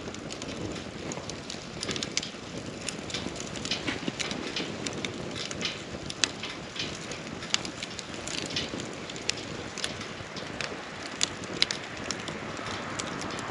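Wood campfire crackling, with scattered sharp pops over a steady rushing background and a few louder pops in the second half. A hiss swells slightly near the end.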